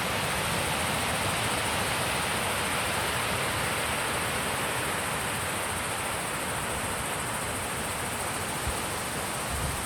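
Steady wind rushing across an open mountain pass, an even hiss with no breaks; near the end, low rumbling bumps of wind hitting the microphone begin.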